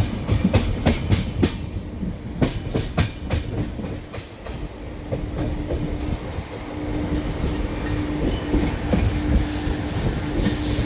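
Express passenger train running on the rails, its wheels clicking over rail joints in quick strokes for the first few seconds. A steady tone comes in about halfway through as the train runs on.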